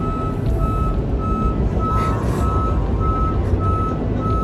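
An electronic beeper sounding evenly, just under two high beeps a second, over the steady low rumble of car wash machinery.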